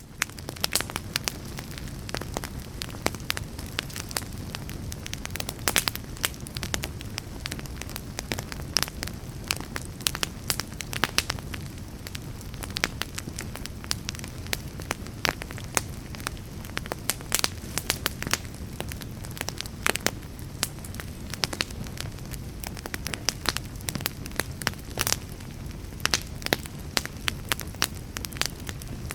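Wood fire burning and crackling, with frequent sharp, irregular pops over a steady low rumble.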